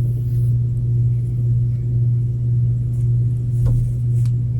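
A loud, steady low hum with a faint wavering in level, and two faint small clicks near the end.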